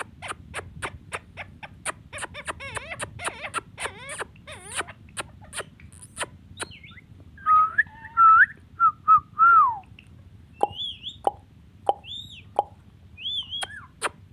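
Ringneck parakeet vocalising: rapid clicks and warbling chatter for about six seconds, then a few loud gliding whistles, then short high squeaky calls.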